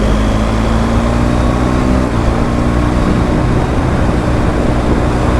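BMW R1250 GS Adventure's boxer-twin engine running steadily while the bike rides along, under a constant rush of riding noise.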